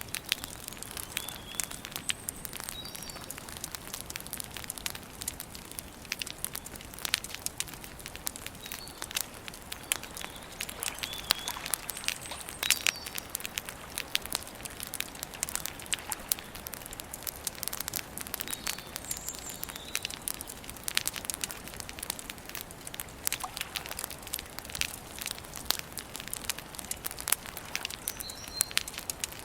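Wood campfire crackling, with frequent sharp pops and snaps, while small birds give short chirps every few seconds over it.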